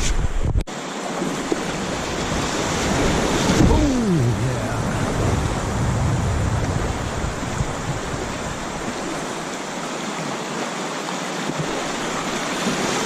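Steady rush of river water over rapids, with a brief dropout just after the start.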